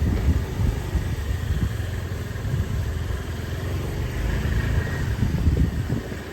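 Motorbike engine running at low speed, over the general noise of a busy street.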